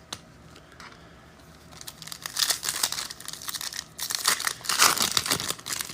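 Card pack wrapper being torn open and crinkled by hand: a quiet start, then a dense run of crackling from about two seconds in, with a short lull in the middle.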